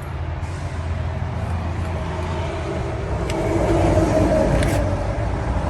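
A motor vehicle's engine running with a steady low rumble, swelling louder for a second or two about three and a half seconds in, then easing off.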